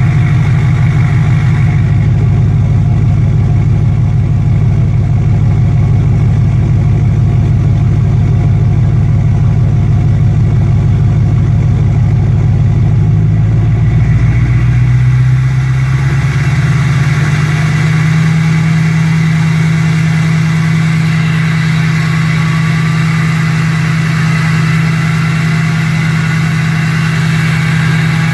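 2005 Duramax LLY 6.6-litre V8 turbo-diesel idling after a cold start at 16 degrees. About halfway through, its idle steps up to a higher, steadier note as the high idle takes over, and near the end a faint rising whine comes in.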